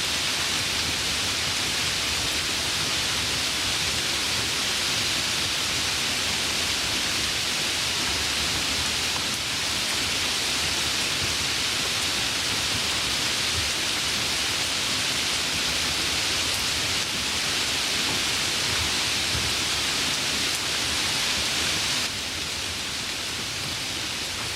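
Steady, dense rainfall hiss with no single drops standing out, dropping slightly in level a couple of seconds before the end.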